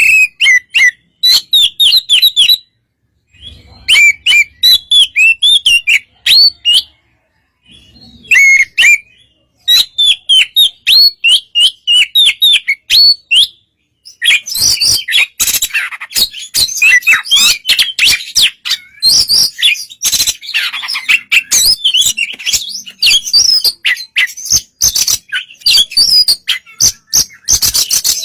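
Oriental magpie-robin (kacer) singing: quick whistled notes in bursts separated by short pauses, turning into a denser, more continuous song about halfway through.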